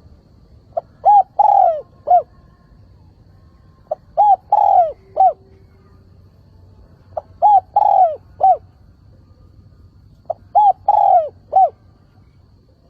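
Spotted dove cooing: four phrases about three seconds apart, each a short note followed by three coos, the middle coo the longest. This is the decoy bird's call, used to draw in and stir up wild doves.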